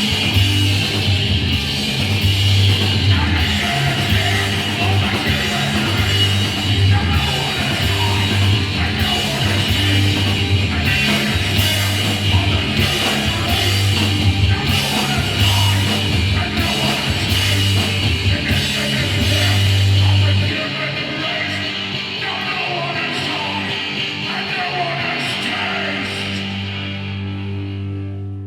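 Hardcore punk band playing loud at a live gig: drums, bass and distorted guitar. About two-thirds through, the heavy low end and drumming cut off, and the remaining chord rings out and fades as the song ends.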